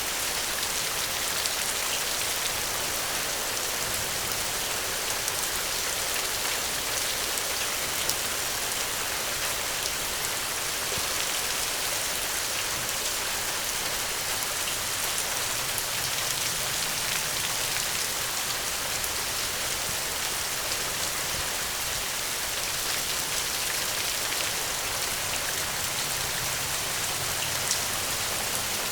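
Steady rain falling, an even hiss with scattered small ticks of drops and no thunder.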